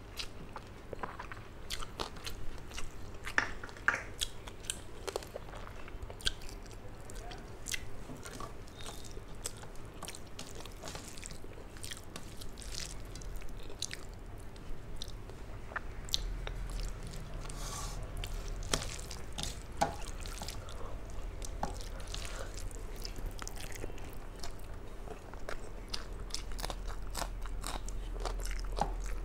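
Close-miked chewing of hand-fed mouthfuls of rice and hilsa fish, with many irregular wet mouth clicks and smacks. A low hum comes in about halfway.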